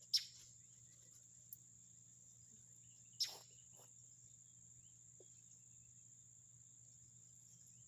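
Steady high-pitched insect drone, typical of crickets, with two short sharp rustling clicks: one just after the start and one about three seconds in.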